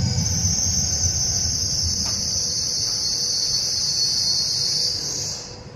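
Trenitalia Pop (Alstom Coradia Stream) electric train running along an underground station platform: a steady high-pitched squeal over a low rumble, which cuts off about five and a half seconds in.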